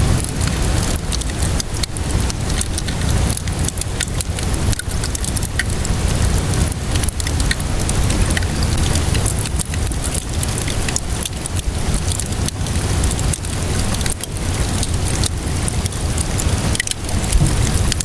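Crackling wood fire, with many sharp pops and snaps scattered over a steady hiss of rainfall and a deep rumble underneath.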